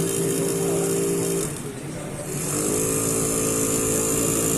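Small PWM-driven DC motor of a model washing machine whining steadily, stopping about a second and a half in and spinning up again just under a second later: the drum reversing direction in the slow-wash cycle.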